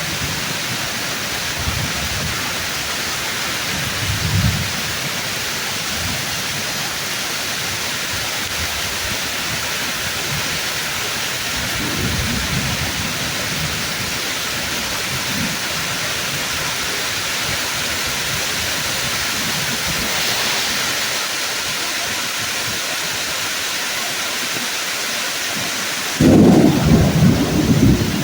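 Steady heavy rain pouring on tree leaves, with soft low thunder rumbles about four and twelve seconds in, then a sudden loud crash of thunder near the end.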